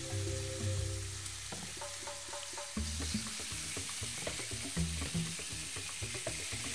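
Sauerkraut with carrot and onion sizzling as it fries in a non-stick pan, while a wooden spatula stirs it with small scraping taps against the pan.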